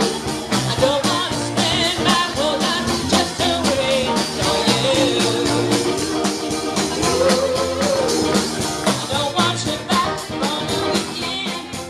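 Live band music: a singer's melody over a steady drum beat and backing instruments, fading down near the end.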